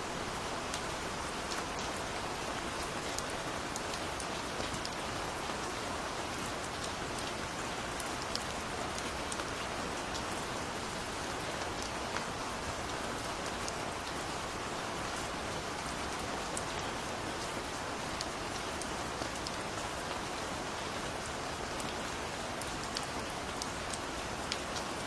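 Steady gentle rain falling, an even hiss with individual raindrops ticking here and there.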